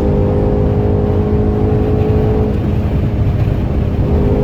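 Mercedes-AMG C63 S twin-turbo V8 running at steady revs while driving, with a constant engine drone over heavy road rumble.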